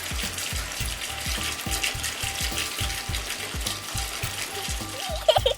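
Rapid, steady clicking of a small mechanism, like a ratchet or gears, over background music with a regular low beat.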